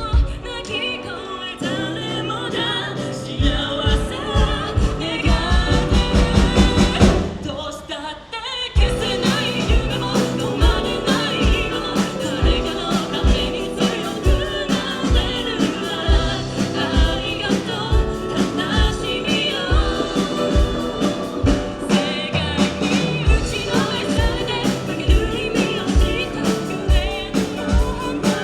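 Live band playing a song with a singer and a steady drum beat; the music briefly drops away about eight seconds in, then the full band comes back.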